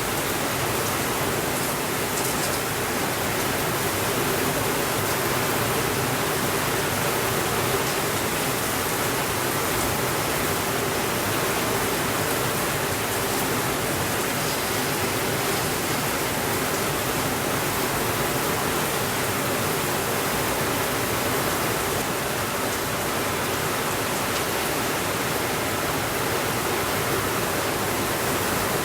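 Steady, even rainfall: a constant hiss with no thunder and no breaks.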